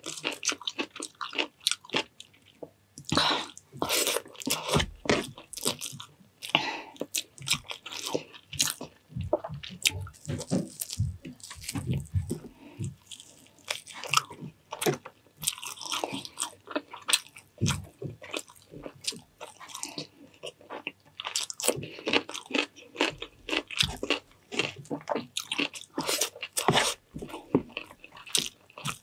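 A person chewing and crunching food close to the microphone, with many quick, irregular crisp crunches.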